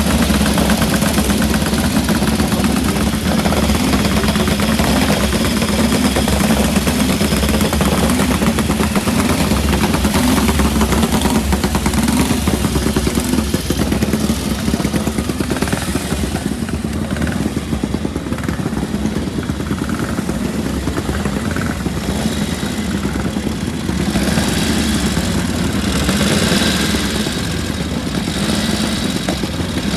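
Vintage Grand Prix racing motorcycle engines running on the grid, loud and continuous, with their pitch rising and falling as they are revved.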